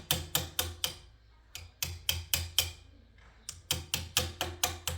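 Quick hammer taps on wood, about four blows a second, in three runs with short pauses between.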